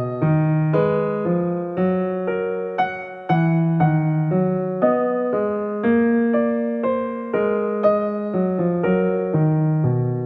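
Background music: a gentle electric piano playing a steady melody of chords, a new note about every half second.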